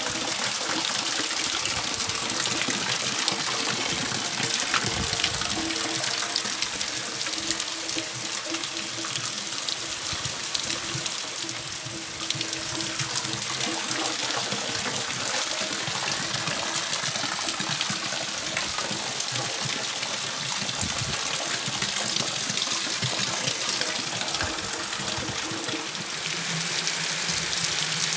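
Water running steadily, a continuous rush like a tap running into a sink.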